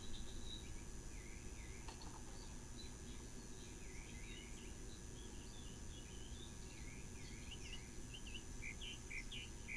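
Birds chirping: a string of short, quickly repeated chirps that grows busier and louder over the last few seconds, over a low steady background hum.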